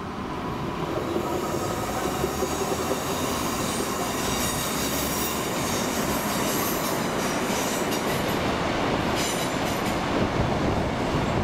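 A train moving through the station, its running noise on the rails building and then holding steady, with a high metallic wheel squeal over it.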